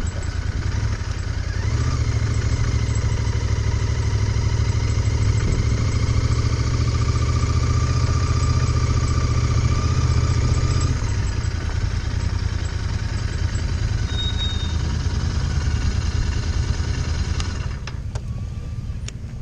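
Royal Enfield Interceptor 650 parallel-twin engine running at low speed, heard from the rider's seat, easing off about eleven seconds in as the bike slows to a stop. A few sharp clicks come near the end.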